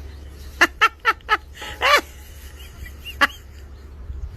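A bird calling: four short harsh calls in quick succession, then a longer call that rises and falls in pitch, and one more short call later on.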